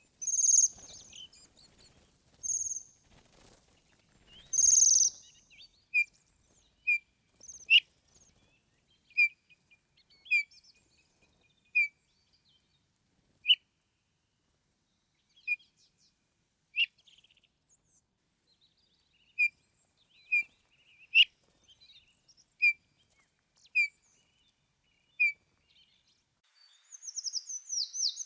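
Bohemian waxwings give three short, high, buzzy trills in the first five seconds. Then a Eurasian bullfinch gives soft, low, single piping notes, spaced a second or two apart. Near the end a common treecreeper starts a high, rapid trill that falls in pitch.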